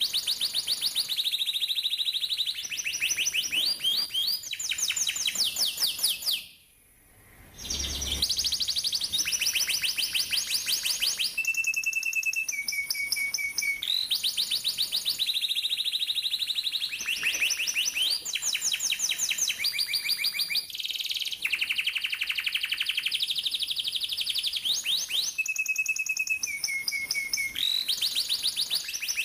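Domestic canary singing long, fast rolling trills of rapidly repeated notes, with chirps and brief held whistles between the rolls. The song breaks off briefly about seven seconds in, then resumes.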